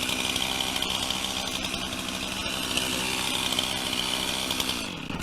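Chainsaw idling steadily after being let off the throttle, then shut off about five seconds in, its pitch sliding down as the engine stops.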